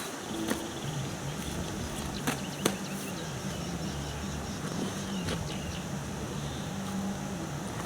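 A motor running at a fairly steady pitch that wavers slightly, with a few sharp clicks or knocks over it.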